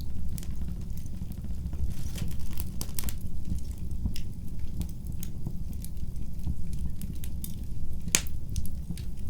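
Fire crackling in a fireplace: frequent irregular snaps and pops over a steady low rumble, with one sharper pop about eight seconds in.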